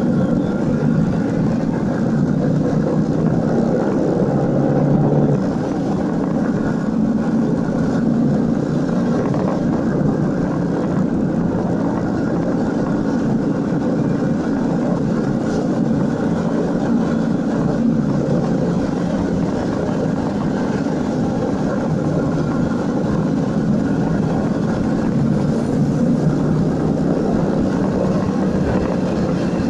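Motorcycle engine running steadily under way, with road noise.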